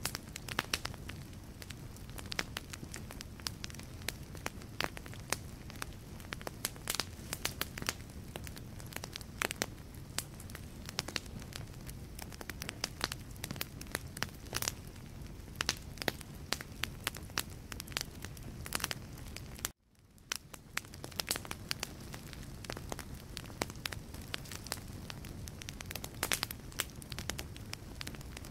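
Wood logs burning in a fireplace, crackling with a steady stream of sharp pops and snaps over a low, even rumble of flame. About twenty seconds in the sound cuts out abruptly for a moment and swells back in.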